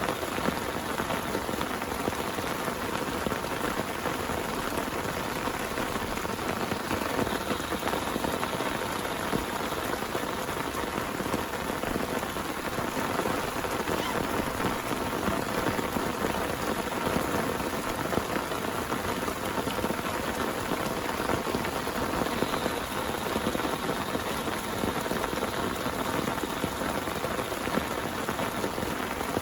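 Heavy rain falling steadily: a dense, even patter of drops hitting a surface.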